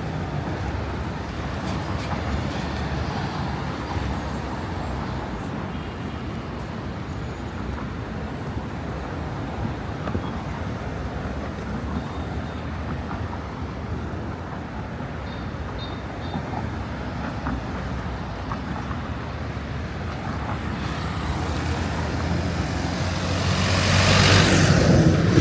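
Steady street traffic noise, with a vehicle passing close and loud near the end.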